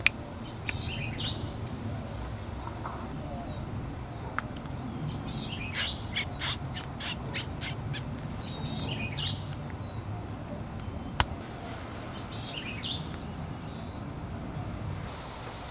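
Birds chirping in short bursts of quick notes, four times, over a steady low rumble. A quick run of about seven sharp clicks comes in the middle, and a single sharp click comes later.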